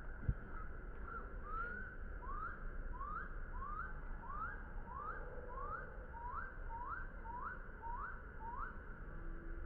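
A series of short rising whistled notes, about two a second, repeated a dozen or more times over a steady hiss, with a single sharp thump just after the start.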